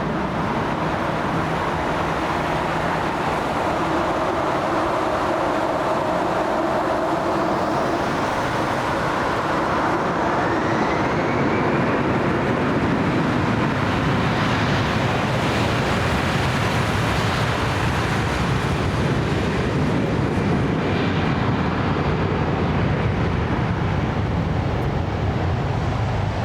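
Jet airliner engines running loud as the aircraft passes close, a steady dense noise with a whining tone in it that slides in pitch and rises about ten seconds in.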